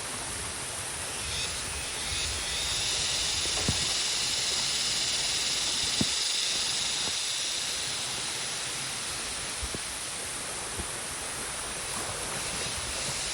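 Waterfall: water running down a rock face, a steady rushing hiss that swells slightly in the middle, with a few faint knocks.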